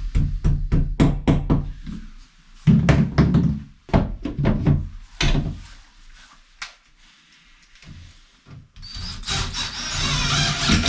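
A run of sharp knocks and thuds on wood, fast at first and then in clusters, followed near the end by a rasping scrape that stops abruptly.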